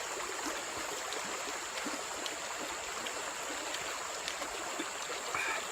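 Steady rush of a shallow forest stream flowing over stones, with a few faint clicks and a brief higher sound near the end.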